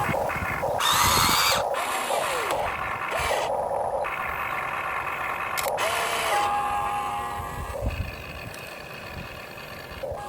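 Electric drive motors and plastic gearboxes of a Huina 1592 RC excavator whining, the pitch rising and falling as the arm and tracks move, with a steady held whine a little past the middle.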